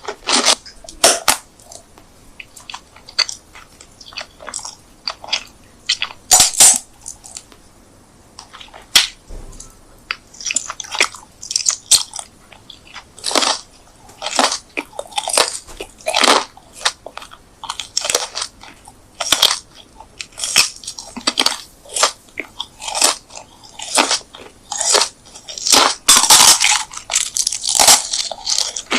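Close-miked eating sounds: crisp, crunchy bites and chewing of food, coming in irregular bursts with short pauses between. The crunching is busiest near the end.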